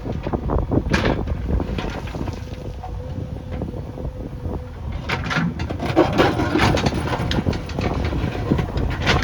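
JCB backhoe loader's diesel engine running, with wind buffeting the microphone and many short crackles and knocks over the rumble.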